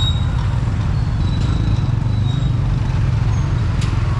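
City street traffic: a steady low rumble of motor vehicles with road noise.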